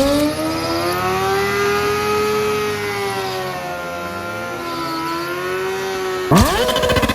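Sport motorcycle engine held at high revs, its pitch climbing, holding, dipping and rising again. About six seconds in it cuts abruptly to a louder bike whose pitch drops sharply as it passes.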